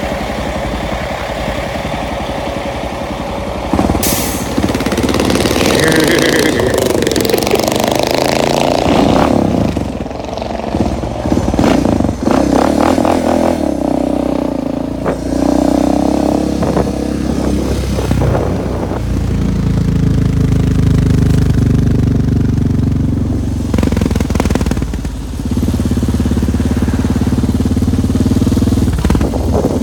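Suzuki DR650 dirt bike's single-cylinder four-stroke engine running under way, its pitch rising and falling as it is revved and eased off through the gears, with a sharp noisy burst about four seconds in.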